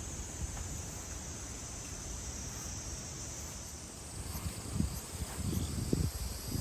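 A steady, high-pitched chorus of insects, with a few low thumps in the last couple of seconds.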